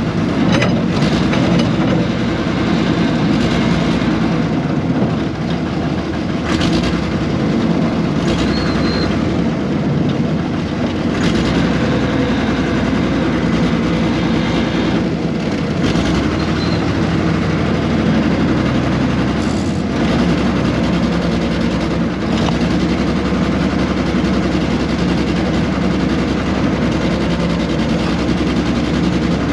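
Air-cooled Deutz diesel engine of a 1970s RM.80 excavator running steadily, with a rattling clatter and a few sharp knocks from the working machine.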